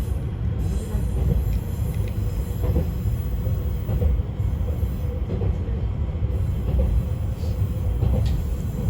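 Izukyu 2100 series electric train running, heard from on board: a steady low rumble of wheels on rails with a faint steady hum above it.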